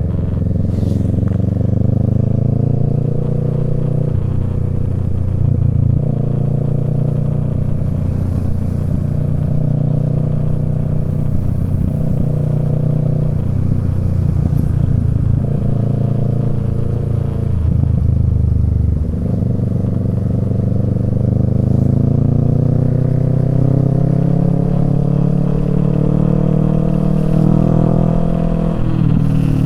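Kawasaki Z650's parallel-twin engine through a Yoshimura Alpha exhaust, ridden hard: the revs climb and drop back again and again as it shifts through the gears, with a long steep climb near the end.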